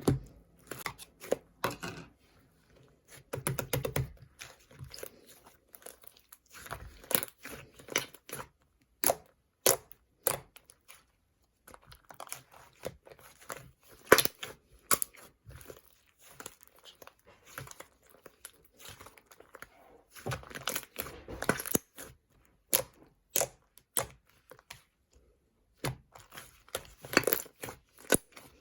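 Slime being squeezed, stretched and poked by hand, giving irregular clicks, pops and crackles with short pauses between.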